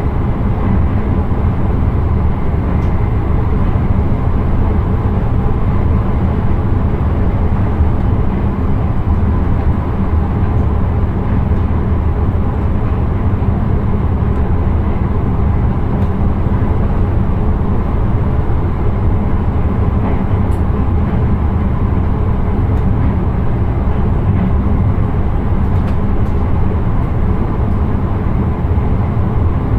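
Steady rumble of an intercity train running along the track, heard from inside the driver's cab.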